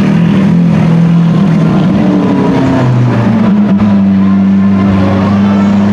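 A supercar's engine running, a loud steady drone whose pitch shifts about three seconds in and then holds steady.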